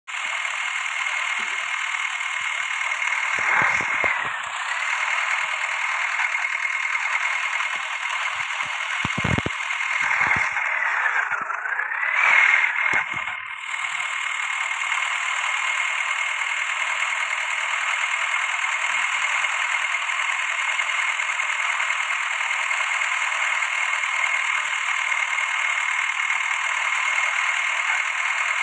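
Tractor running steadily, heard as a constant high whine over a noisy mechanical hiss, with the whine dipping in pitch and recovering twice, about four and eleven seconds in.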